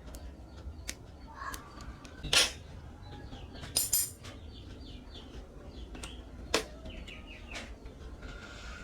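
Scattered metallic clinks and knocks, with the loudest about two and a half seconds in and about four seconds in, where one clink rings briefly. Birds chirp in the background.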